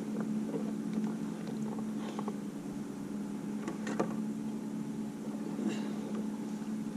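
Steady hum of a boat motor running, with light water splashes and knocks now and then.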